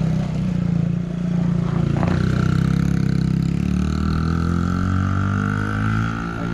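Motorcycle engine running as the bike circles, its pitch falling gradually over the last few seconds as it slows.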